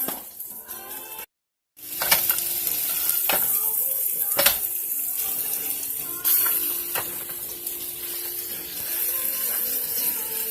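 Steak frying in a pan with a steady sizzle, and now and then the sharp clink of a utensil against the pan. The sound cuts out completely for about half a second a little over a second in.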